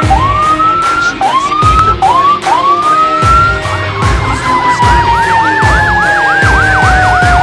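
Fire engine sirens on a code-3 response. About five short rising whoops come first, then a long, slowly falling wail under a fast warbling yelp.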